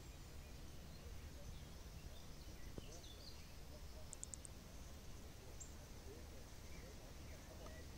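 Faint birdsong over a low, steady rumble, with a quick run of four high, short notes about four seconds in.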